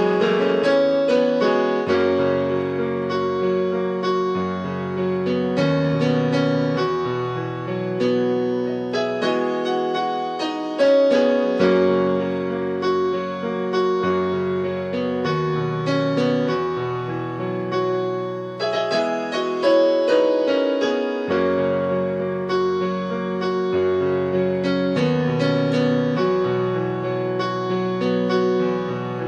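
Keyboard playing worship music: sustained chords over a low bass note that changes every second or two, with frequent struck notes above.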